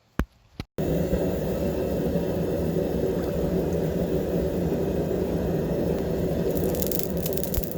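Hot leaf-spring steel blade quenched in oil: after a couple of light clicks, a steady low bubbling rumble starts suddenly about a second in, with crackling near the end.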